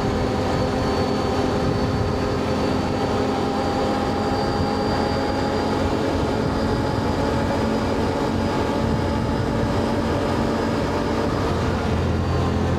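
Can-Am Outlander ATV engine running at a steady cruising speed while being ridden, its hum drifting slightly up in pitch and back, over a constant low rumble of travel.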